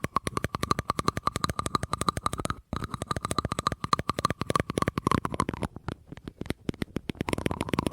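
Rapid tapping on a hard object that rings with a steady tone, about ten taps a second. The tapping breaks off briefly about two and a half seconds in and turns sparser for a moment near the end.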